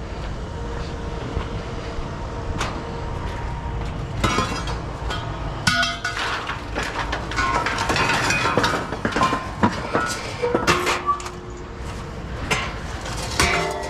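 Pieces of scrap metal clanking and clinking against each other as they are handled, a run of sharp ringing hits starting about four seconds in, over a steady low rumble.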